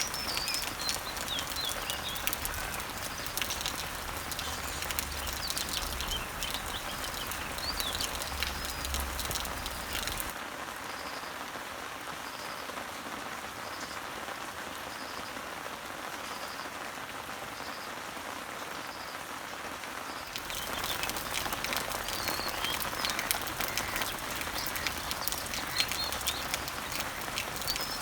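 Rain falling on leaves, a steady hiss with the patter of many drops, and small birds chirping over it. For about ten seconds in the middle the chirping drops out, the rain is softer, and a short high note repeats about every second.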